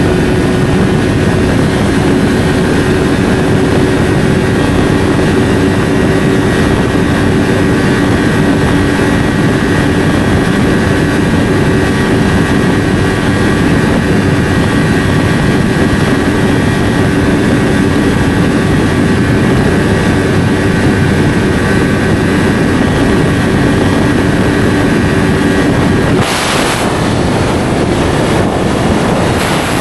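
Yamaha R3A motorcycle with an SC Project slip-on exhaust running at a steady engine speed under way, a constant, even engine note. About 26 seconds in, the steady note drops away and a short rush of wind noise comes through.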